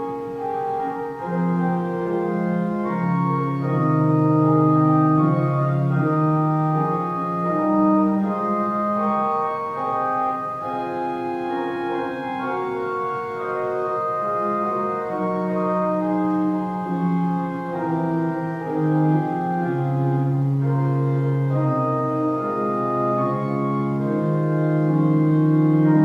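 Organ music: slow, sustained chords, each held for a second or more, over a moving bass line.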